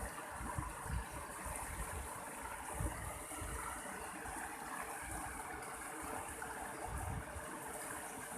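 Mountain stream water flowing steadily, with irregular low rumbles underneath.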